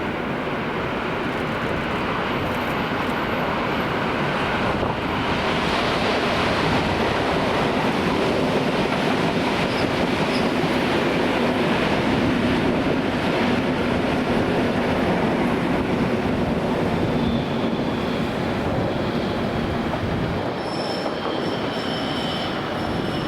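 Train running on the rails, a steady rolling rumble that grows louder through the middle. Thin wheel squeals come in near the end.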